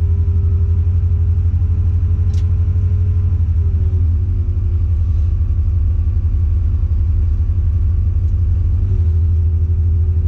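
Diesel engine of a Tadano ATF 180G-5 all-terrain crane running steadily, heard from inside the crane cab; its pitch dips slightly about four seconds in and rises again near the end. A single sharp click about two seconds in.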